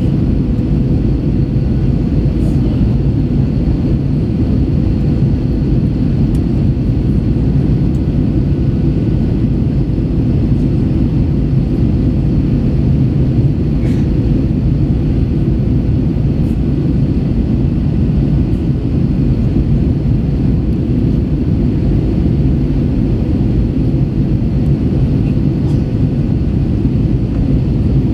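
Steady noise of an Airbus A321's engines and airflow heard inside the cabin in flight, with a faint steady hum running through it.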